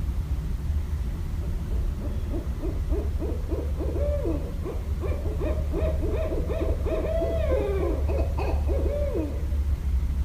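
Barred owl calling: a rapid run of short hooting notes that begins about two seconds in, builds, and ends with a longer note sliding downward near the end. A steady low rumble runs underneath.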